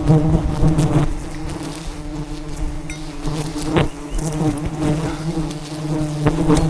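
A swarm of wild honeybees buzzing in a dense, steady hum of many wings, with a single sharp click about four seconds in.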